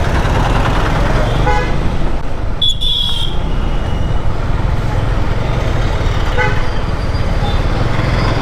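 City road traffic with a steady low rumble, and vehicle horns tooting. There is a short high honk a little under three seconds in, with briefer honks at about one and a half and six and a half seconds.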